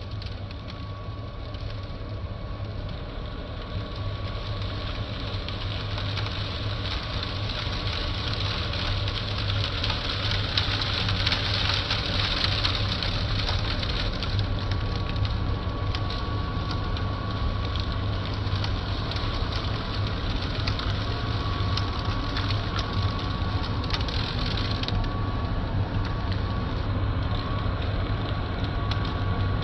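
Miele Blizzard CX1 bagless cyclonic vacuum cleaner running steadily, a low hum and a thin whine under a rushing hiss, with scattered crackles of debris being drawn into the cyclone. The hiss grows over the first ten seconds or so and eases a little about 25 seconds in.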